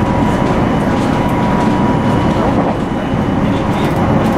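Electric commuter train running at speed, heard from inside the front of the train: a steady rumble of wheels on rail with a thin steady whine above it.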